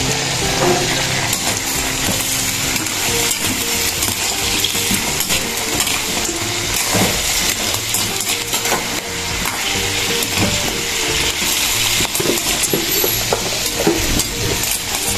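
Food sizzling as it fries in a pan, with a utensil stirring and clicking against the pan.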